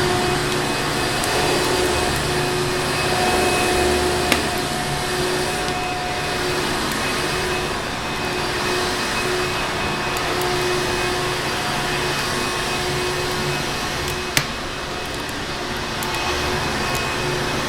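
Vacuum cleaner running steadily, a dense hum with a faint steady whine, layered with a crackling fireplace. Two sharp pops stand out, about four seconds in and again later.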